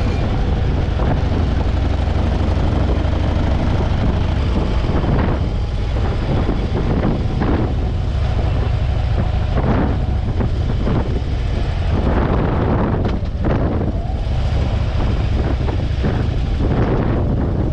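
Motorcycle running steadily at road speed, its engine drone mixed with wind rushing over the microphone.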